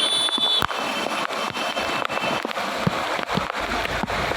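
Traffic on a waterlogged street: vehicle engines running over a steady wash of noise, with a deeper rumble building near the end.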